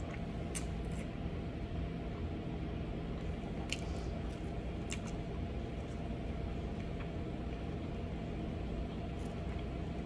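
Faint mouth sounds of someone chewing food, with a few small clicks, over a steady low hum.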